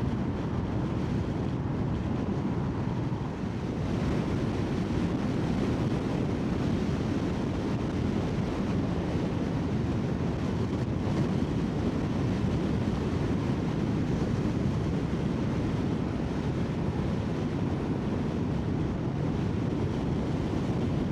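Steady wind rush on the microphone of a motorcycle at riding speed, with road and engine noise beneath.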